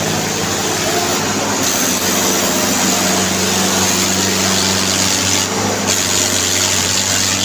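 Mahindra Arjun tractor's diesel engine running steadily at a constant speed.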